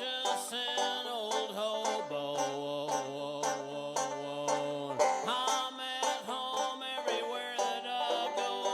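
Banjo music, a fast picked melody over other instruments.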